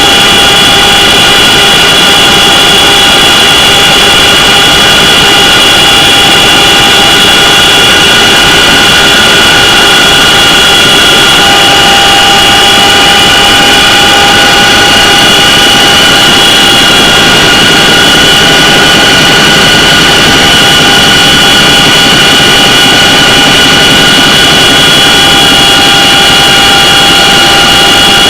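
CH-47 Chinook helicopter's twin turbine engines running: a loud, steady high-pitched whine over a constant rushing noise.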